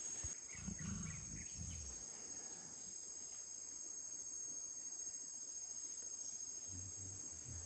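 Steady, high-pitched chirring of an insect chorus in rainforest, unbroken throughout, with faint low sounds in the first couple of seconds.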